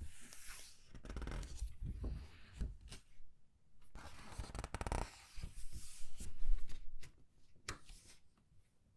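Comic book pages being turned and squeezed: irregular crinkling and rustling paper with short crackles, loudest about six and a half seconds in.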